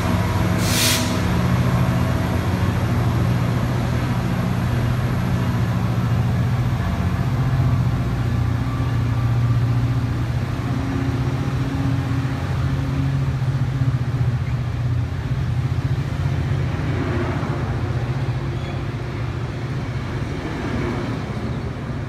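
A diesel locomotive's engine running with a steady low drone, from the MP36PH3-C at the head of a Metrolink commuter train. A short hiss of air is heard about a second in.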